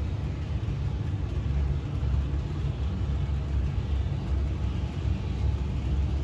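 HO-scale Bachmann Toby the Tram Engine model locomotive running on track: a steady low rumble of its motor and wheels.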